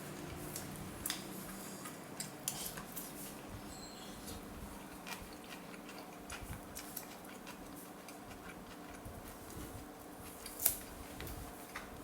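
Utensils clinking and tapping against a bowl while eating soup, in scattered, irregular light clicks, with one sharper click near the end, over a steady low hum.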